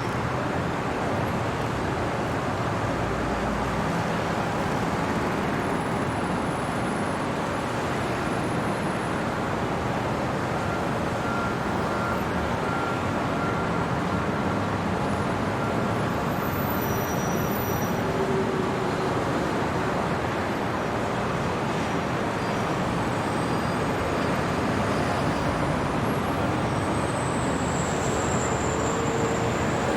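Steady city traffic ambience: an even wash of road noise from passing vehicles, with a faint high whine near the end.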